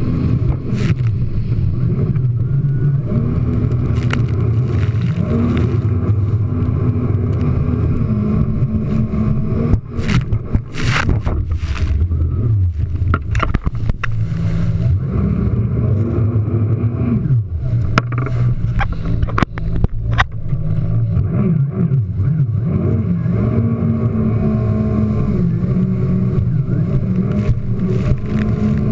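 Jet ski engine running, its pitch rising and falling as the throttle is worked. Sharp splashes and hull slaps come from jumping waves, most of them between about ten and twenty seconds in.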